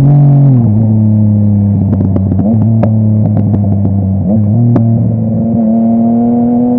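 Yamaha MT-09's inline three-cylinder engine through a full Akrapovic exhaust, dropping in pitch off the throttle, then running steadily at low revs. A string of sharp exhaust pops and crackles comes about two to three seconds in, with one more a little later, and the engine note edges up near the end.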